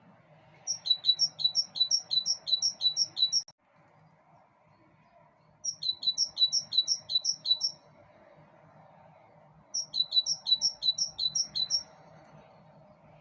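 A bird singing in three bouts of quick, repeated two-part chirps, about four or five a second, each bout lasting two to three seconds with short pauses between.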